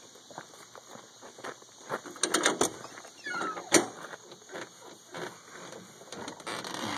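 Faint regular taps, then a cluster of loud clicks and knocks about two seconds in and a single sharp knock near the middle.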